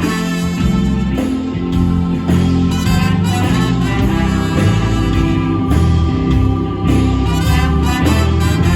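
Live band playing an instrumental break of a soul song, with no vocals: a steady bass and drum groove under sustained melodic lines.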